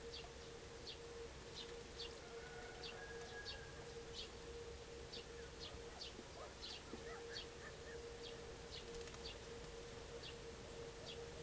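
A small bird calling over and over: short, sharp, high calls, irregularly spaced about every half second, over a steady low hum.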